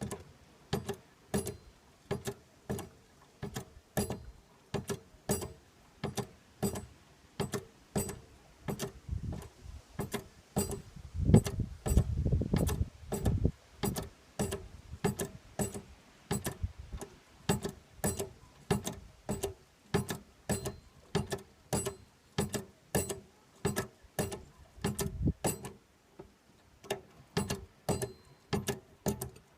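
Hand pump of a hydraulic exhaust blow-out kit being worked stroke after stroke, clicking about twice a second, as it pumps water into a two-stroke exhaust pipe to drive out trapped air. About eleven seconds in there is a louder, low rumbling stretch of a couple of seconds, and a brief one later.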